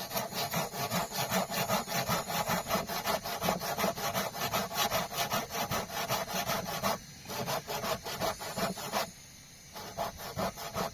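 Wood being cut with a handsaw: fast, even back-and-forth rasping strokes, breaking off briefly about seven seconds in and again near nine seconds.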